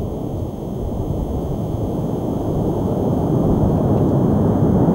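Low rumble of a Proton-M rocket's six first-stage engines just after liftoff, growing steadily louder.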